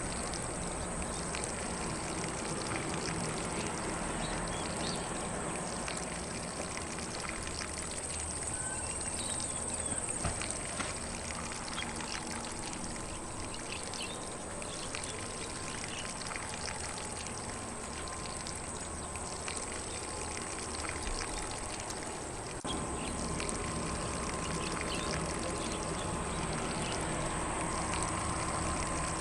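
Lawn sprinkler spraying water onto grass with a steady hiss and patter, with faint bird chirps in the distance.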